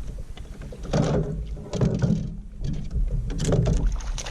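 Handling noises aboard a fishing kayak: irregular thumps, knocks and rustles in three or so bursts about a second apart.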